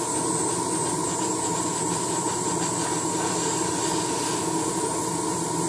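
Airbrush spraying paint: a steady hiss of compressed air with a constant whine, running as the paint cup runs nearly dry.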